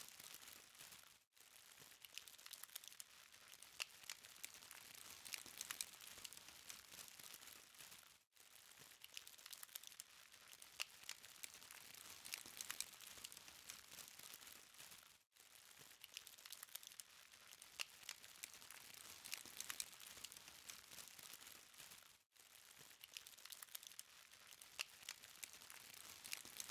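Burning BBQ charcoal crackling and popping faintly, a dense run of small sharp snaps over a soft hiss. The sound drops out for a split second about every seven seconds.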